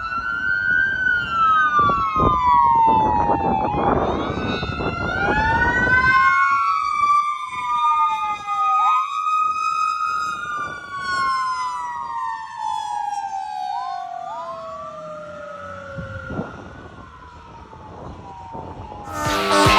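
Fire engine siren, repeatedly rising quickly in pitch and sliding slowly back down over several seconds, fading out near the end.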